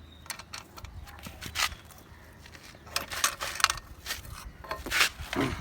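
Irregular metallic clinks and knocks of hand tools, sharper and more frequent in the second half.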